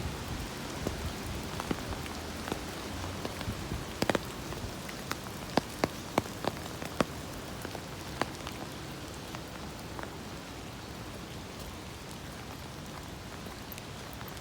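Steady rain pattering, with a cluster of loud, sharp drop taps on a hard surface between about four and eight seconds in.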